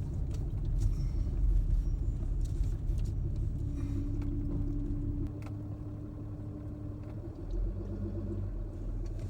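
Ram pickup carrying a truck camper rolling slowly along a rough dirt road: a low engine and tyre rumble with scattered short clicks and rattles. A steady engine tone comes in a few seconds in and fades out near the two-thirds mark.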